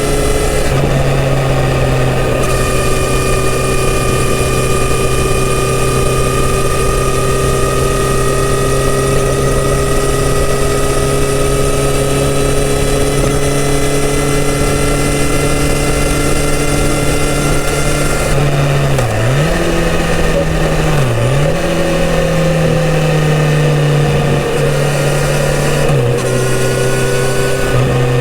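Kawasaki Z900RS inline-four on its stock exhaust running under way, holding a steady note that drifts slowly in pitch. About two-thirds of the way through, the engine note dips sharply twice in quick succession, then settles again.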